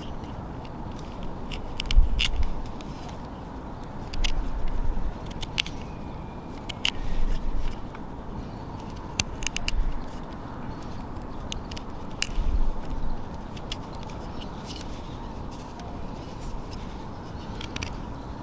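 Wood fire crackling, with irregular sharp pops and snaps over a steady low hiss, and a few dull low thuds every couple of seconds.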